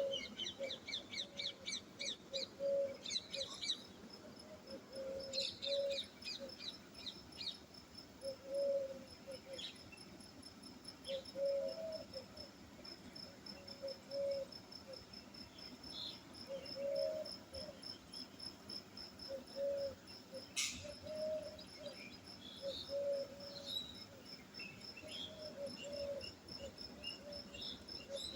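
Outdoor nature ambience: a cricket's steady high trill, clusters of bird chirps in the first several seconds, and a low short call, often two notes, repeating about every three seconds.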